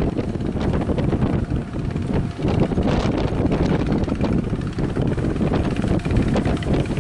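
Strong wind buffeting the microphone: a loud, rough, unsteady rumble.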